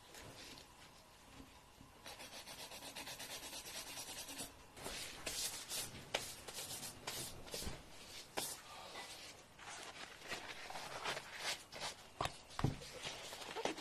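Fingernails being filed with a nail file: a burst of rapid, fine rasping strokes about two seconds in, then slower, separate scraping strokes.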